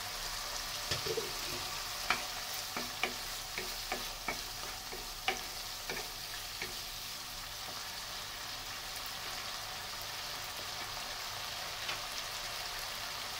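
Onion, tomato and spice masala sizzling in oil in a nonstick pan. A spatula stirs it, with a string of clicks and taps against the pan over the first several seconds, then steady sizzling.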